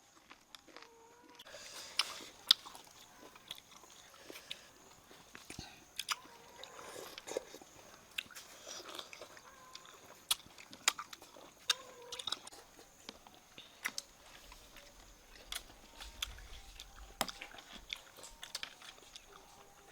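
A person biting and chewing crunchy food, with irregular sharp crunches.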